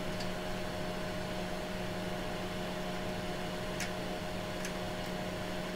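Steady hum and fan-like whir from running bench test equipment, holding several steady tones, with two faint ticks a little past the middle.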